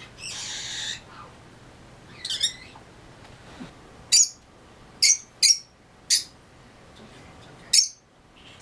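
Pet parrot calling: a brief hiss near the start, then a call and five short, sharp squawks, roughly a second apart.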